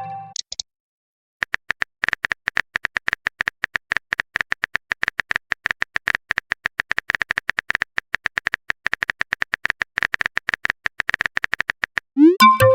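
Rapid typing clicks, a phone-keyboard tapping sound effect, several taps a second, starting about a second and a half in. Near the end a short message chime sounds.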